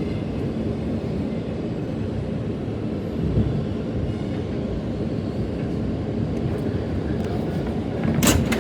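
New York City subway train running between stations, heard from inside the car: a steady low rumble of wheels on rails. A sharp clack near the end, after which the rumble grows louder.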